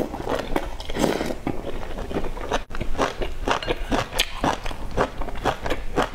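Close-miked eating: a person biting and chewing food with many short, wet clicking mouth sounds in quick succession.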